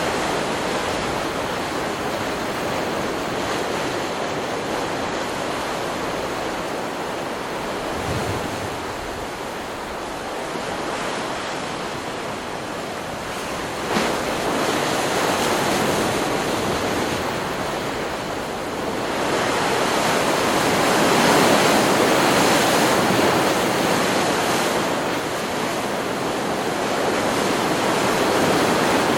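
Ocean surf: waves breaking and washing in a continuous rush that swells louder for a few seconds past the middle, with one sharp click about halfway through.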